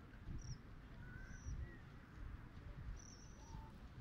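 Faint short bird chirps, several scattered high calls, over a low wind rumble on the microphone.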